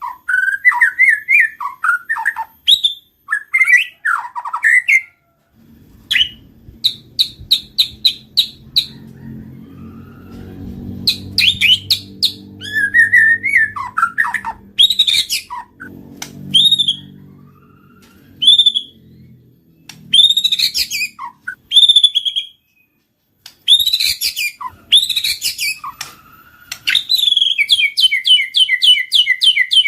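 White-rumped shama singing: loud, varied whistled phrases with rising and falling glides, separated by short pauses. It breaks into fast runs of the same repeated note about seven seconds in and again near the end.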